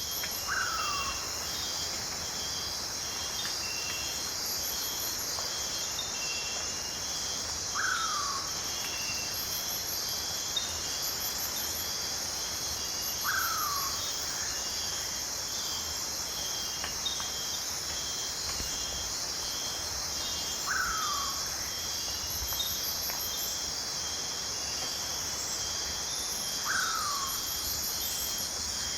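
Night rainforest insect chorus: a steady high trilling with rows of rapid pulsed chirps over it. A short, downward-sliding call repeats five times, about every six seconds.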